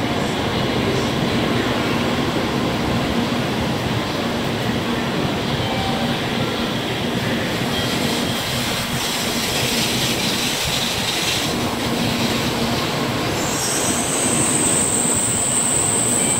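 Tokaido Shinkansen train rolling in alongside the platform, a steady rush of wheel and air noise as it slows to a stop. About 13 seconds in, a high, thin squeal sets in and holds as it slows.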